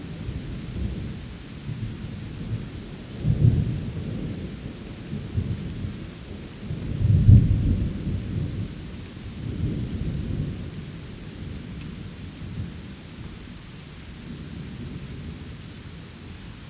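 Steady rain with rolling thunder; the rumbles swell loudest about three and a half and seven seconds in, with a weaker one around ten seconds, then die away.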